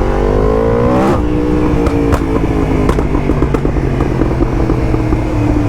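Yamaha MT10's crossplane inline-four engine, through a full titanium Akrapovic race exhaust, accelerating with a rising note. About a second in the throttle closes and the pitch drops. Over the next couple of seconds there are several sharp pops from the exhaust on the overrun, and then the engine settles to a steadier note.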